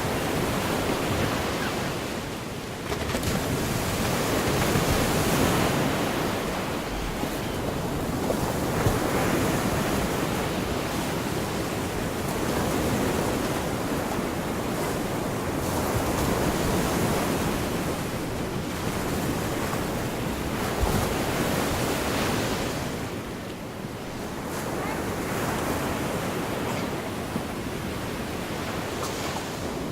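Gulf of Mexico surf washing onto the shore in a continuous hiss, swelling and easing every few seconds as the waves come in.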